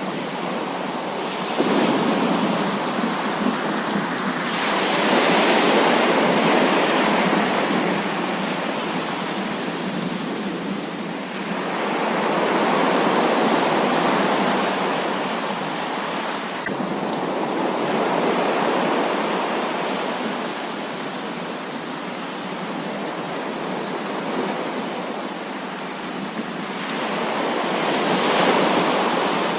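Heavy rain falling steadily, with rolls of thunder that swell and fade every few seconds, the first breaking in sharply about two seconds in.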